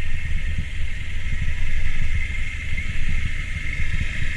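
A vehicle creeping down a steep, rough road: a low engine and road rumble, uneven with constant small jolts, under a steady higher hiss.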